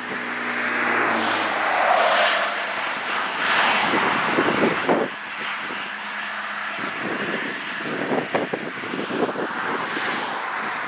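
A motor engine passing by, its steady hum and rushing noise swelling over the first couple of seconds and easing off after about five seconds.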